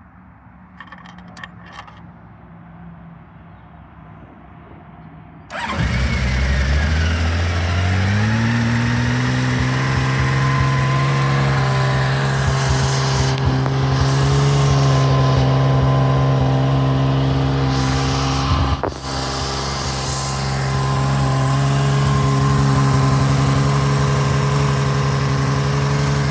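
A 1982 Honda CBX's air-cooled inline-six engine on a cold start. After a few faint clicks it catches suddenly about five seconds in, climbs in pitch over a couple of seconds and settles into a steady, even fast idle.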